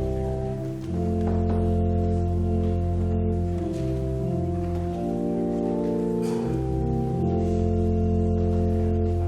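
Church organ playing slow, sustained chords over a deep bass line, the chords changing every second or two.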